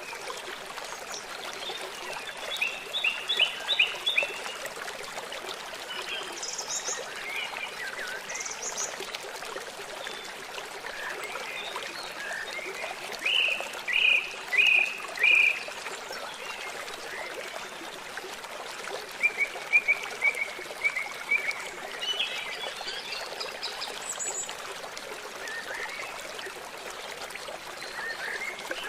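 Steady rush of a flowing river, with birds calling in short phrases of quick repeated notes several times over it; the loudest phrase is three strong notes about fourteen seconds in.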